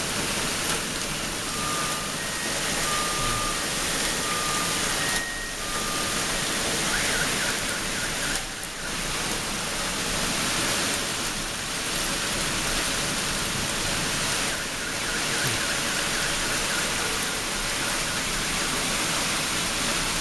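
Heavy downpour of rain mixed with hail falling on pavement and parked cars: a steady, dense hiss.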